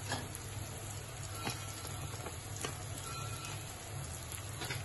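Boiled chowmein noodles sizzling in a hot iron kadhai on a gas stove: a steady hiss with a few light clicks.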